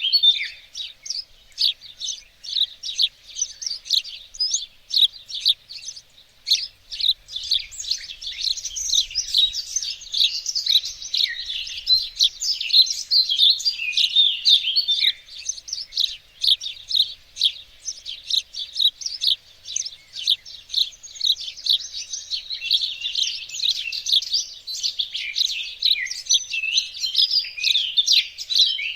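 Songbirds singing in a garden: a dense, continuous chorus of rapid high chirps and trills.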